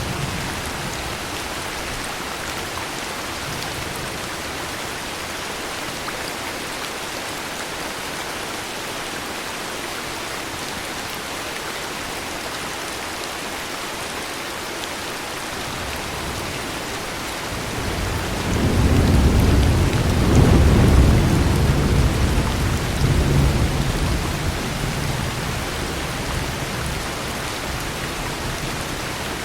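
Steady heavy rain hissing, with a long low rumble of thunder that swells about two-thirds of the way through and dies away over several seconds.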